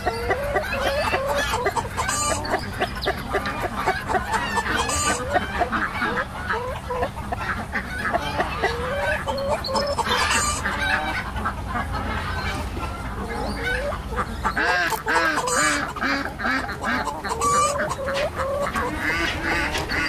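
A flock of Silkie chickens clucking and calling, many short overlapping calls one after another.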